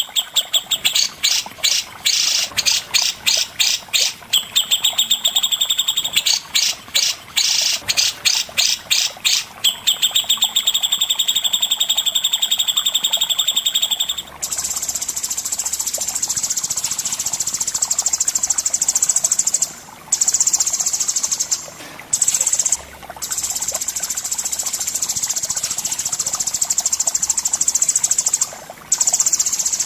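Songbird singing loud and high. Fast runs of repeated notes fill the first half, then a long unbroken buzzing trill takes over about halfway through, cut by a few brief pauses.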